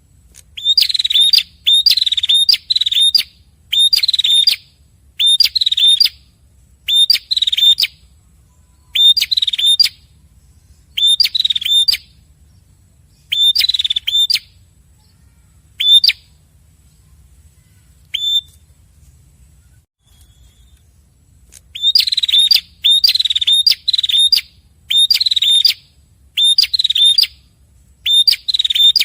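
Red-headed prenjak, male and female, calling back and forth: loud, short, sharp chirping notes about two a second, in runs. A gap of several seconds partway through holds one faint note, then the rapid calling starts again.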